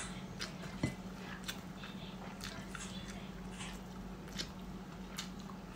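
A person chewing food with the mouth closed: scattered soft, wet mouth clicks and smacks, over a steady low hum.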